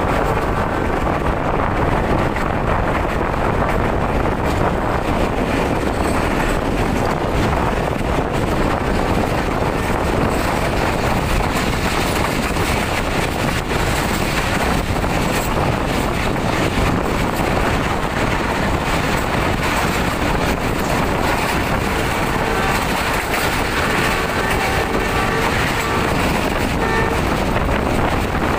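Passenger train running at speed, heard from an open coach window: a steady rumble of wheels on the rails mixed with wind buffeting the microphone.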